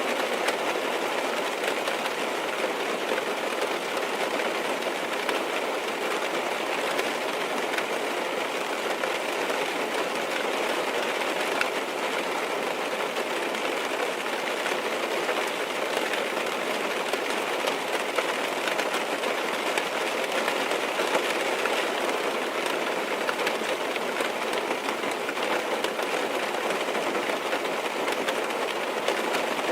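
Steady rain falling on a car's roof and windows, heard from inside the car: a constant dense patter with no breaks.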